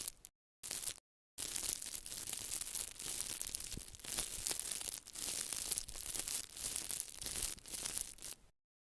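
Crisp crinkling and scratchy rustling, as of material being handled, rubbed or torn, cut into short pieces with dead-silent gaps near the start and near the end.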